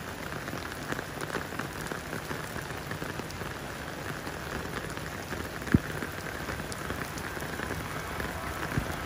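Steady rain falling and pattering on surfaces, with a single dull knock a little past halfway.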